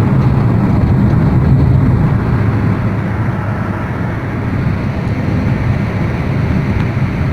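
Honda Brio Satya driving steadily, its engine and road noise a constant low rush with no rising rev.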